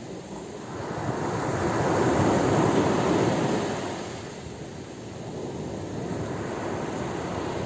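Ocean waves breaking on a shore, a steady wash of surf. One wave swells up about a second in, peaks after two and a half seconds and recedes by about five seconds, before the next builds more gently.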